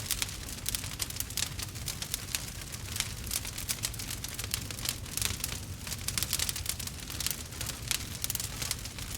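Burning wood crackling and popping: dense, irregular sharp snaps over a low, steady rumble of the fire.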